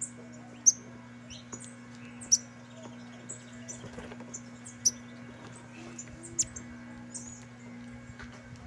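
A flock of saffron finches (canários-da-terra) chirping with many short, high calls, a few of them much louder, over a steady low hum.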